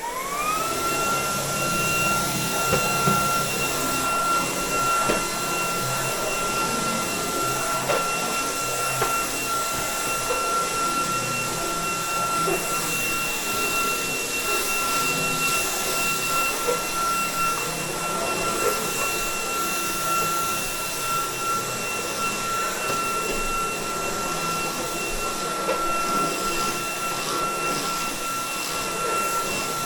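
ROIDMI X200 Jet cordless stick vacuum running at full suction. Its motor spins up in a quick rising whine, then holds a steady high whine over the rush of air.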